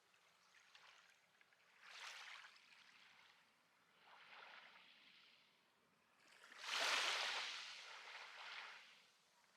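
Small sea waves washing onto the shore: several soft swells of surf, the biggest one about two-thirds of the way through.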